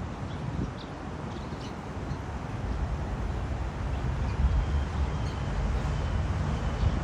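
Outdoor city ambience: a low rumble that grows louder, with a few faint short bird chirps in the first second or so.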